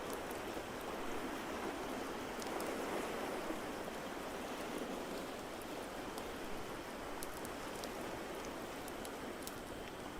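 Steady wash of ocean waves with sparse, sharp crackles of a wood fire.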